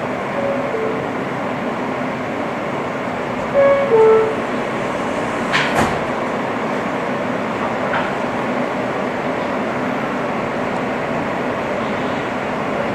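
R160 subway car interior: the two-note descending door chime sounds twice, a short thump follows about six seconds in, and then the car's steady running noise as the train pulls out of the station.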